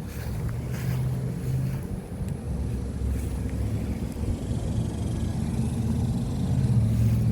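Trane XR14 outdoor condensing unit running in cool mode: a steady low hum of the compressor and condenser fan, growing louder near the end.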